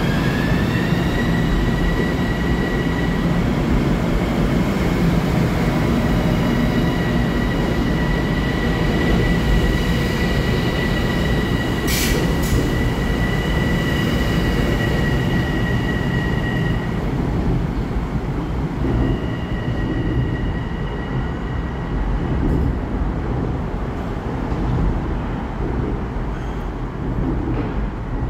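LIRR M7 electric multiple-unit train pulling out and moving past, its traction motors whining over the rumble of wheels on rail; the whine rises in pitch over the first second, then holds steady. Two sharp clicks about twelve seconds in, and the sound thins in the last ten seconds as the train moves off.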